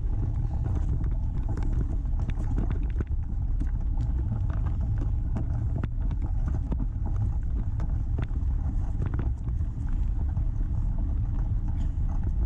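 Wind buffeting the microphone during a bicycle ride on a sandy trail: a steady low rumble, with scattered clicks and rattles from the bike.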